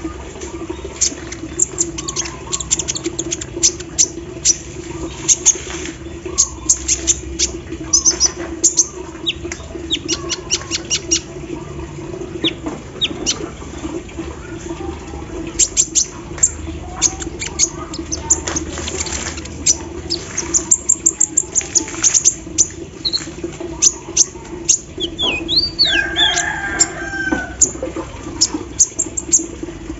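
Kolibri ninja sunbird singing at length: fast runs of dry, sharp ticking notes and high chirps that imitate the clatter of an embroidery machine, with a few short whistled phrases near the end, over a steady low hum.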